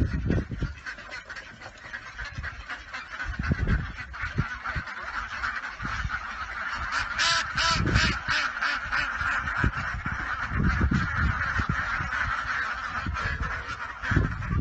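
Many birds calling at once without a break, with scattered low thumps and a run of knocks about halfway through.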